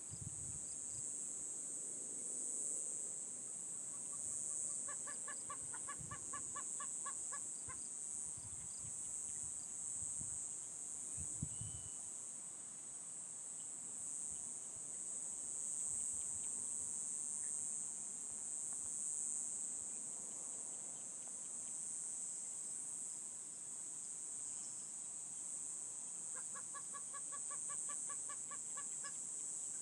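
Steady high-pitched chorus of crickets, with two runs of rapid, evenly repeated calls, one about five seconds in and one near the end. A few low thumps come in the first dozen seconds.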